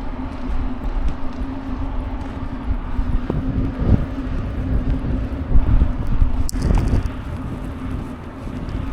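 Blizzard wind buffeting the microphone in gusts, over a steady low hum.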